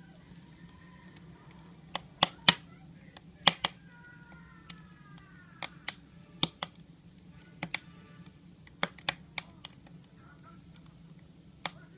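Firewood burning in a stove, crackling with a dozen or more sharp pops at irregular intervals.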